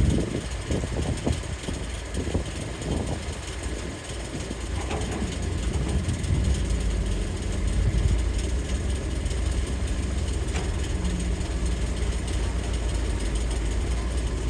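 Heavy diesel engine of an excavator working, running steadily. A run of knocks and thuds comes in the first three seconds, the loudest right at the start.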